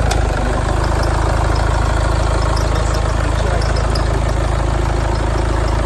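Citroën C-Crosser's HDi diesel engine idling steadily.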